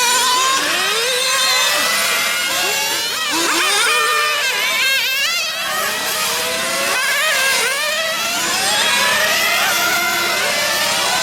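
Several nitro-powered 1/8-scale RC cars' small glow engines running at high revs, their high pitch rising and falling over and over as they accelerate and back off, the engines overlapping.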